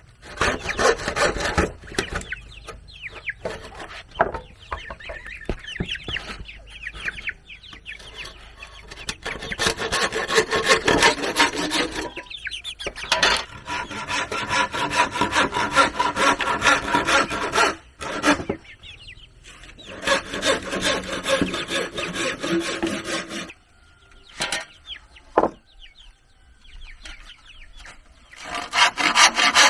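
Saw cutting through wood in runs of rapid back-and-forth strokes, stopping briefly a few times, with a longer break near the end.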